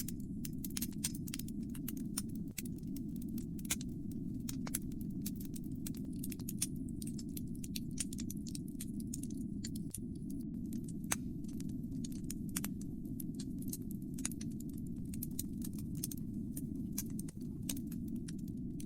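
Fire in a fireplace crackling: frequent sharp snaps and pops at irregular intervals over a steady low rumble of the flames.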